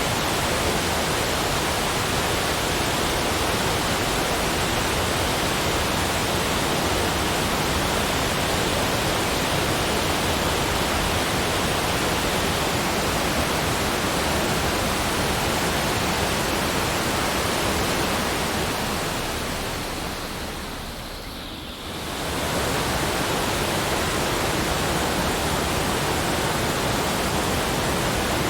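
Steady, even rushing noise with no distinct events, like falling water or a continuous noise track. It fades down for a few seconds about two-thirds through, then comes back at the same level, as at a loop join.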